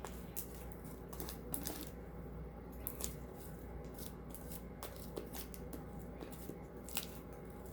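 Sticky slime being kneaded and pulled by hand, giving irregular small clicks and crackles, over a steady low hum.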